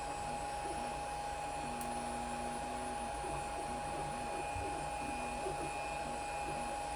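3D printer running a print: a cooling fan's steady whine, with the stepper motors buzzing in short notes that change pitch as the print head moves.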